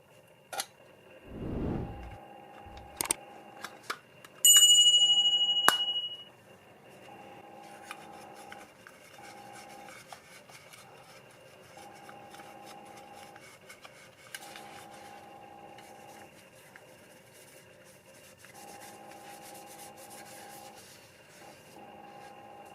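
Small metal parts being handled on a workbench: a few clicks, then one bright metallic ring that dies away over about a second and a half, followed by faint scraping and rubbing.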